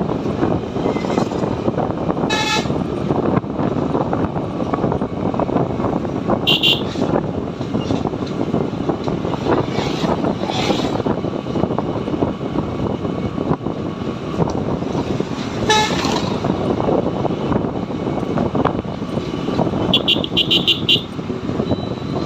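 Steady engine and road noise of a moving motorcycle, cut by vehicle horns honking several times: single short blasts every few seconds, then a quick run of short high beeps near the end.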